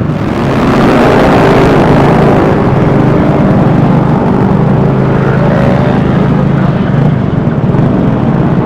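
Vespa S 125 scooter's single-cylinder engine running under way, with road and wind noise on the microphone. It gets louder about a second in, then holds steady.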